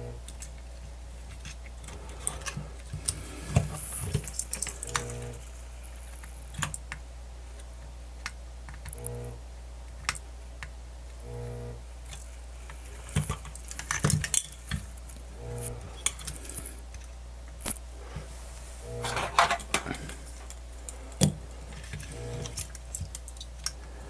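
Small metal tools and radio parts handled on a workbench: scattered clicks, taps and light clatter, over a steady low hum.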